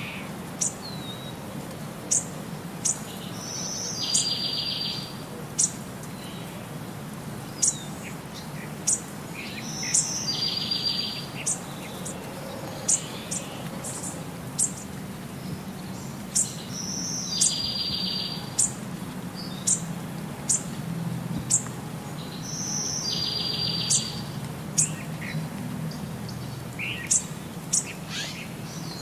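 Birds chirping: short, sharp, high chirps about once a second, with a longer trilled call coming back every six or seven seconds, over a steady low rumble.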